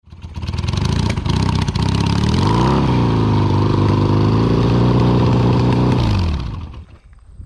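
1978 Yamaha XS650's parallel-twin engine running, revved up about two and a half seconds in and held, then dropping away near the end.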